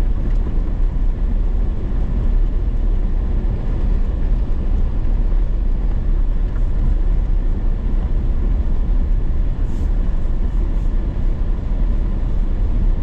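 Engine and drivetrain of a short-wheelbase 4x4 rescue rig running steadily as it drives up a deep-snow trail, a continuous low rumble.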